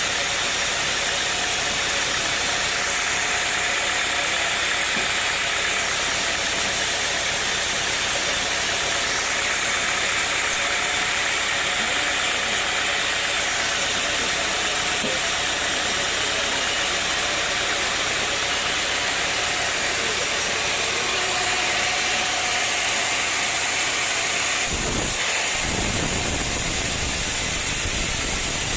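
Sawmill machinery running: a steady, loud mechanical hiss, with a deeper rumble joining about 25 seconds in.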